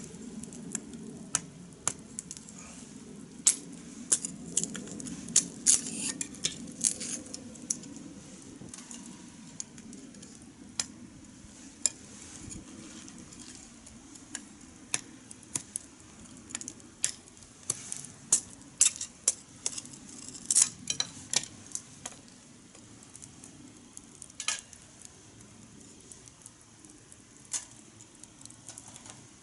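Wood fire in a fire stand crackling, with sharp irregular pops. They cluster in the first several seconds and again about two-thirds through, and thin out near the end over a low, steady rush.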